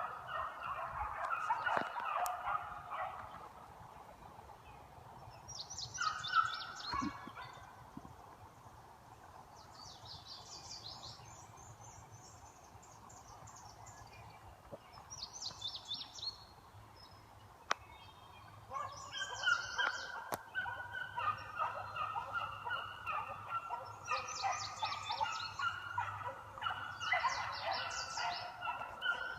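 Pack of beagles baying in chorus while running a scent trail, the overlapping cries dying down after a few seconds and building again after about 18 seconds.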